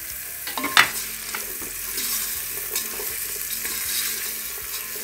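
Diced carrots and green chillies sizzling in hot oil in a rice cooker's metal pot while a plastic rice paddle stirs them, scraping and clicking against the pot. One louder scrape comes a little under a second in.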